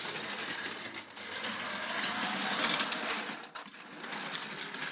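Battery-powered TOMY toy train's small electric motor and gears whirring steadily as it runs along plastic track, with a few light clicks; it dips briefly about a second in and again later.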